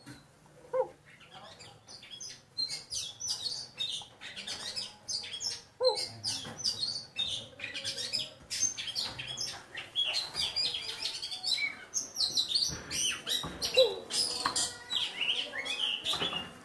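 Birds chirping and twittering in quick, overlapping high notes that begin about a second and a half in and continue without a break, with a few lower, short sliding notes mixed in.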